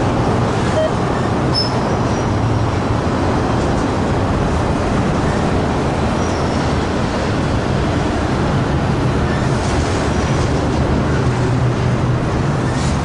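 Freight train rolling past: a steady, loud rumble of wheels on rail with a low engine hum underneath and a few brief faint high squeaks.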